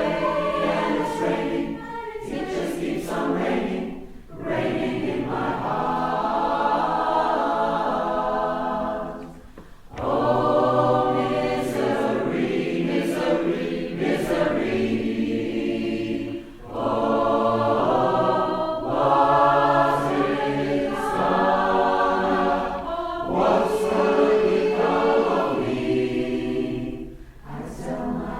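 A choir singing in harmony, in long phrases broken by short pauses.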